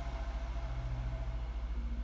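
Daimler Super V8's supercharged 4.0-litre V8 idling steadily: a low, even, rapidly pulsing hum.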